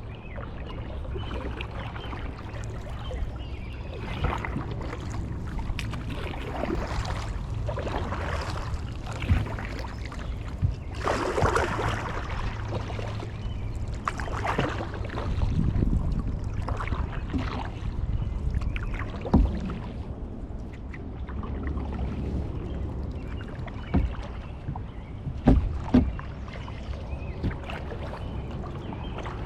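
Kayak paddle strokes dipping and splashing in the water at an irregular pace over a steady low rumble, with a louder splash about a third of the way in and a few sharp knocks near the end.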